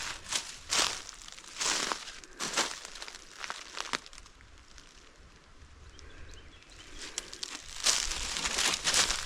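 Footsteps crunching through dry fallen leaves, about one step a second, stopping for a few seconds midway and then starting again.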